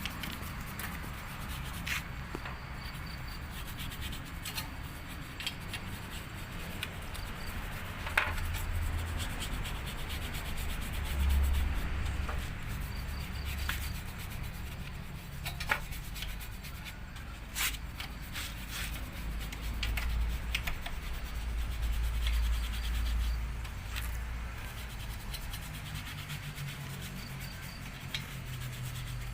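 Rubbing a cleaning paste over the rusty surface of an exhaust pipe by hand, a continuous scrubbing with scattered sharp clicks and knocks.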